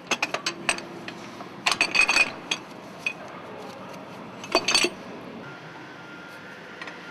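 Steel tools and parts clinking and clattering against each other while a bolted bracket is taken off a diesel engine's cylinder head and exhaust manifold, in clusters of sharp clicks in the first two seconds or so and again near five seconds, over a low steady hum.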